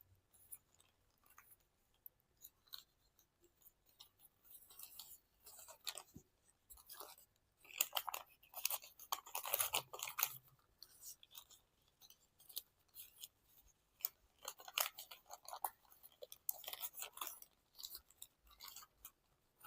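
Paper rustling and crinkling in short, faint spurts as a sheet of origami paper is folded and creased by hand, busiest around the middle of the stretch.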